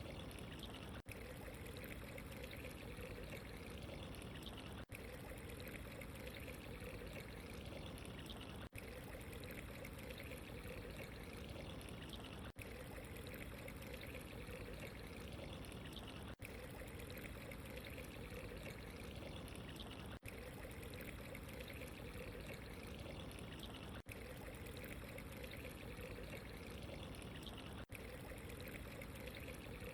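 Steady running water, a continuous trickling pour, with a brief dip in level about every four seconds where the ambience loop repeats.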